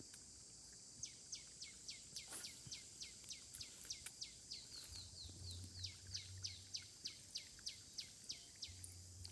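A bird calling a long, fast series of sharp down-sweeping notes, about three or four a second, over a steady high insect hiss. All of it is faint.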